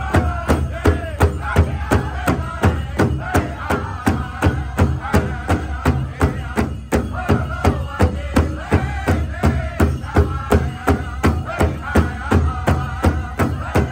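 Powwow drum group singing over a big drum struck in a steady, even beat, about three strikes a second.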